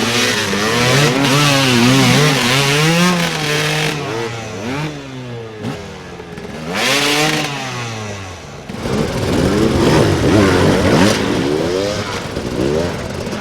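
Dirt bike engines revving up and down repeatedly, the pitch rising and falling with the throttle. About nine seconds in, the sound shifts to another burst of hard revving.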